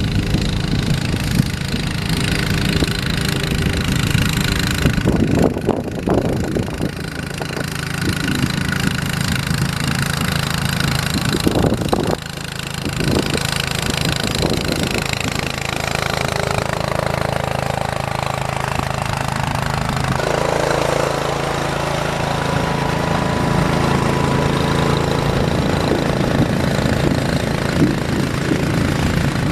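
Engine running steadily, with a few short knocks about a third of the way in and again near the middle.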